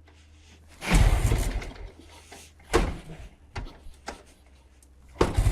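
Ural flat-twin motorcycle engine being started: a few sudden short attempts that do not catch, then near the end it fires and keeps running.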